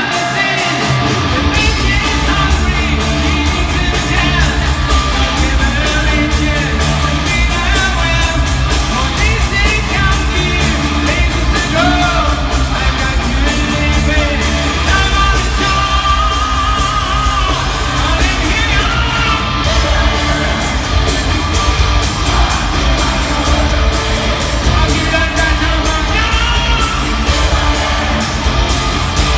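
Hard rock song with a male singer over electric guitars and drums; the bass comes in about a second in.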